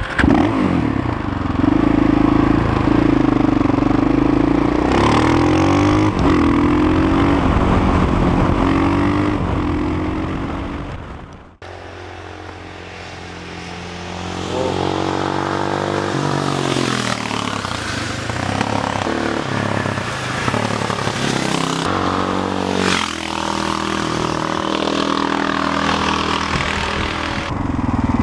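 Motorcycle engine accelerating hard through the gears, its pitch climbing and dropping back at each shift. The sound fades and cuts off abruptly about halfway through, then picks up with more runs of acceleration and gear changes.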